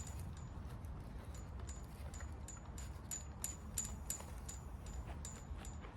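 Steady low wind rumble on the microphone, with a run of sharp, irregular ticks, about two or three a second, each with a brief high ring.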